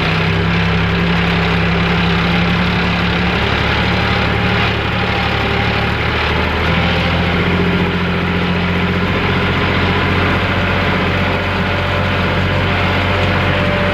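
A heavy vehicle engine running steadily at a low, even pitch, with a slight shift in its note partway through.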